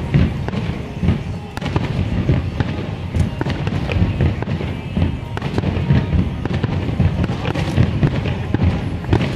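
Aerial fireworks in a continuous barrage: deep booms and sharp cracks following one another without a break.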